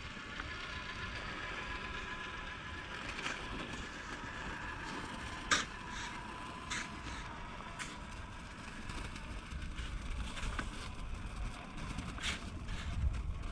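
Monster truck running, with a steady motor whine and scattered sharp knocks and clicks, the loudest about five and a half seconds in.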